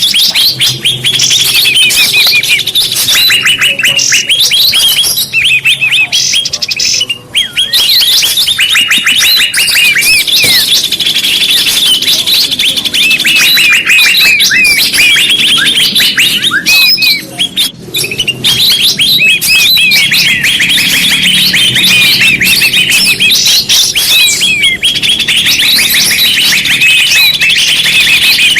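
Bird-lure recording: a dense, unbroken chatter of many small birds chirping rapidly and loudly, the excited flock sound played to draw wild birds in.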